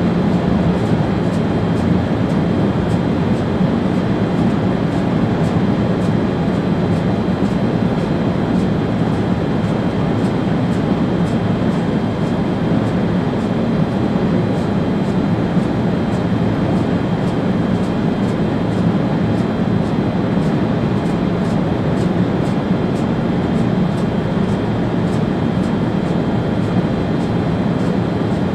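ÖBB Railjet train running steadily along the line, heard from the driver's cab as a continuous rumble and rolling noise.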